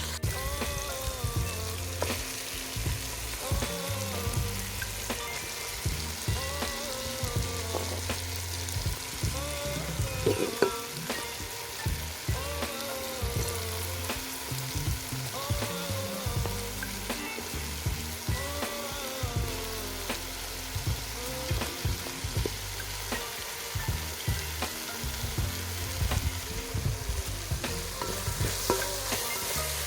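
Food sizzling and frying in a cooking pot, stirred now and then.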